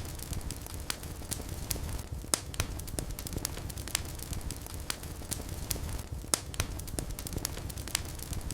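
Wood fire burning in a fireplace: a steady low rumble of flames with irregular crackles and sharp pops, a couple of louder pops standing out.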